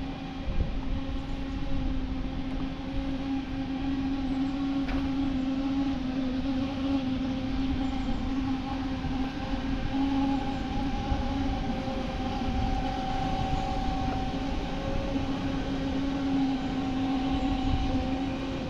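Steady mechanical hum of a running machine, holding one pitch throughout with a low rumble underneath.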